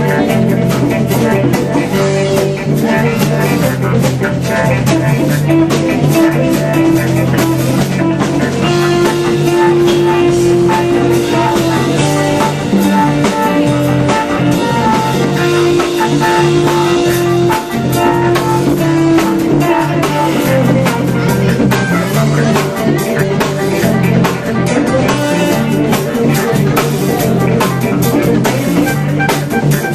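Live band playing an instrumental jam, with electric guitar over a drum kit.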